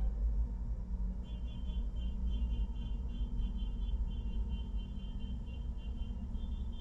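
Steady low rumble of engines running, with a faint high-pitched tone coming in about a second in.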